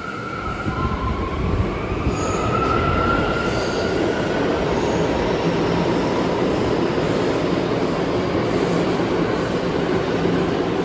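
New York City subway train running through the station with a loud, steady rumble of wheels on rail. A whine rises in pitch over the first few seconds as the loudness builds.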